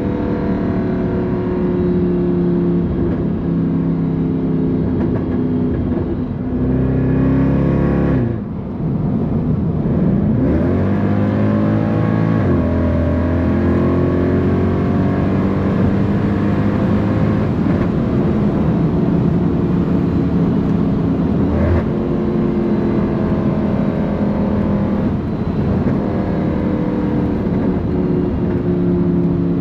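Straight-piped, naturally aspirated M156 V8 of a 2009 Mercedes C63 AMG under way. The exhaust drone is mostly steady, with the pitch falling about seven seconds in and then rising again as it accelerates, before settling back into a steady drone.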